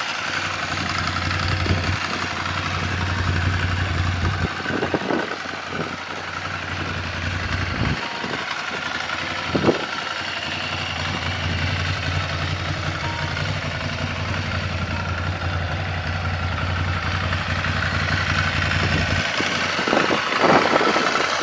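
Ducati Scrambler Full Throttle's air-cooled L-twin idling steadily, with a few brief sharp knocks or clicks over it, one about ten seconds in.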